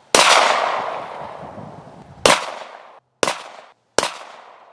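Four shots from a Glock 19 9mm pistol. The first comes right at the start, the next about two seconds later, then two more close together near the end. Each sharp crack is followed by an echoing tail that dies away.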